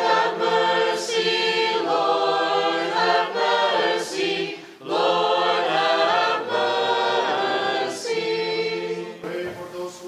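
Church choir singing a cappella in close harmony: sustained chords of a sung liturgical litany response, with a brief break between phrases about five seconds in.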